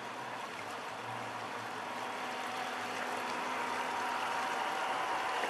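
Radio-controlled model Schnellboot (E-boat) running on the water: a steady, faint motor whine over a rushing wash, growing slowly louder.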